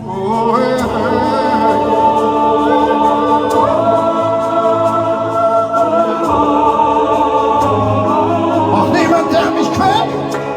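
Live rock concert performance: the band plays while many voices sing long, held wordless notes, choir-like, that change pitch every few seconds.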